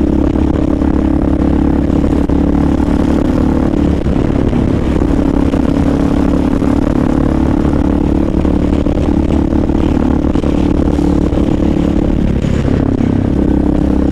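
Motorcycle engine running steadily under way, with road and wind noise; the engine drone dips briefly about four seconds in and again near the end.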